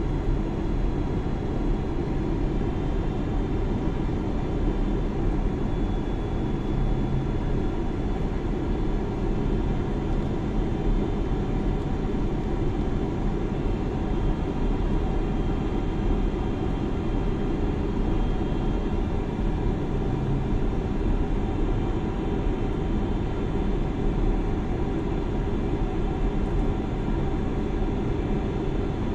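Steady engine and airflow noise inside a jet airliner's cabin in flight, heaviest in the low range, with a few faint steady whining tones above it.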